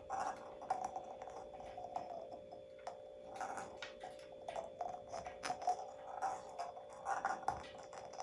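Irregular light clicks and taps from an African grey parrot's feet and beak on a tabletop as she goes after and handles a small fetch ball, over a steady faint hum.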